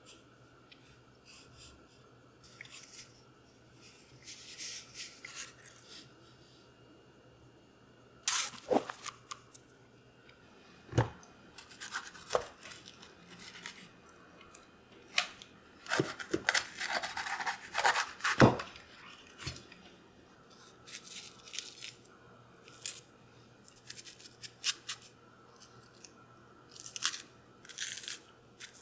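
Scattered rustling, crinkling and light knocks of objects being handled, with a busy stretch of dense rustling and sharp taps in the middle.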